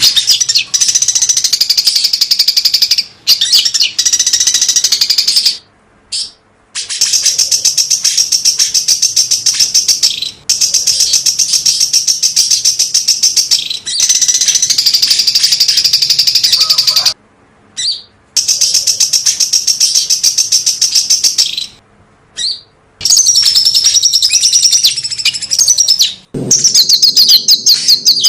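A small songbird, a cucak cungkok, singing rapid, tightly packed high-pitched runs of notes, the burst-fire 'tembakan' style. There are about eight runs of two to four seconds each, every one cut off by a sudden short silence.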